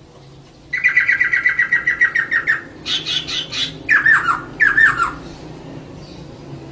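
Female poksay (laughingthrush) calling: a fast run of repeated notes for about two seconds, a short burst of higher notes, then two falling slurred notes. It is the kind of female call used to spur a male poksay into singing.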